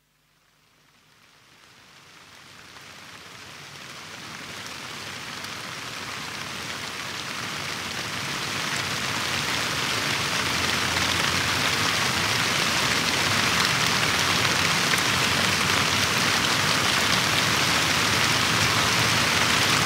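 Steady rain falling, fading in from silence about a second in and growing louder until about halfway, then holding level.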